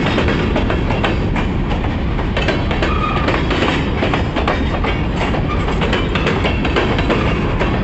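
Freight cars of a passing train rolling by at close range: a steady rumble of steel wheels on rail, with repeated sharp clacks as the wheels cross rail joints.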